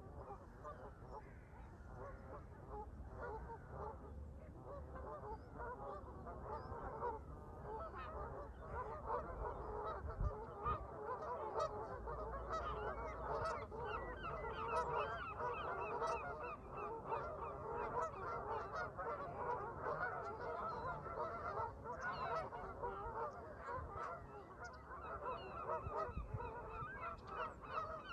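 A flock of Canada geese honking, many calls overlapping in a continuous chorus that grows busier after the first several seconds. A low wind rumble runs underneath.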